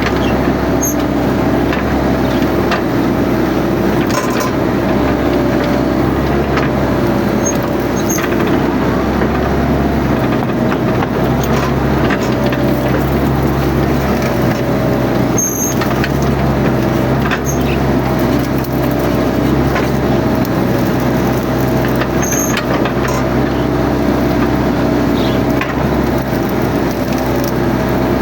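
Mini excavator engine running steadily under working load, with a wavering whine above the engine note and occasional short high chirps and clicks.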